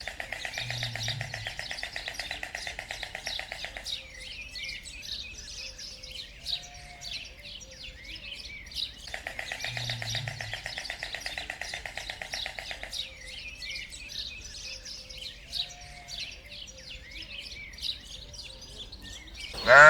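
Birds chirping, with a rapid trill lasting about four seconds followed by scattered short calls. The same stretch of calls repeats after about nine seconds.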